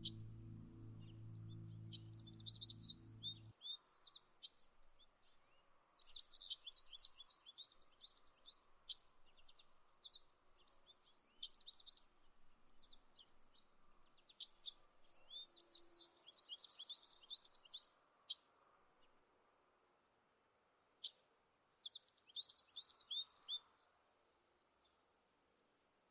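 A songbird singing in short bursts of rapid high chirps, five or six phrases of one to two seconds with pauses between them. A soft low music bed underneath stops about three seconds in.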